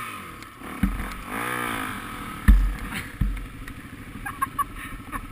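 Dirt bike engine revving up and falling back, then running at low revs, with a few sharp thumps; the loudest comes about two and a half seconds in.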